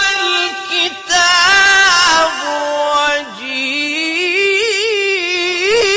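A single voice reciting the Quran in a sung, melodic style, with long held notes and wavering ornaments. The voice breaks briefly twice, dips low about three seconds in, then climbs back up into trills.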